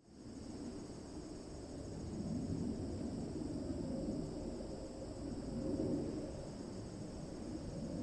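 Crickets chirring steadily in a high, continuous band, over a low rumble that swells and fades twice.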